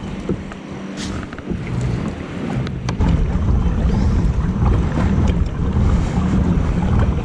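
Wind buffeting the microphone on a kayak rocking in boat wakes, with water washing against the hull over a low wavering drone that grows louder about three seconds in. There are a few light clicks.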